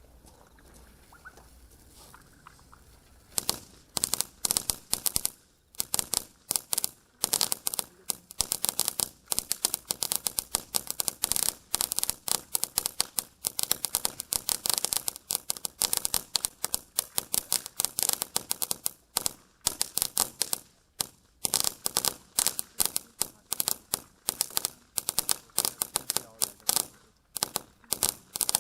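Winda 'Noisy Boys' firework going off in rapid, uneven sharp pops and cracks, many a second, that begin about three seconds in after a faint hiss.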